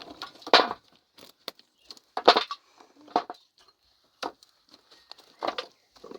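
A hand tool striking hard ground in irregular blows, about six in six seconds, each a sharp hit with a short gritty scrape; the loudest blow comes a little past two seconds in.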